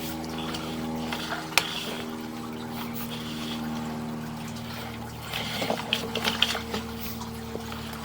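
Steady electrical hum from a sewer inspection camera rig, with faint trickling water, a sharp click early on and a scatter of small clicks about five to seven seconds in.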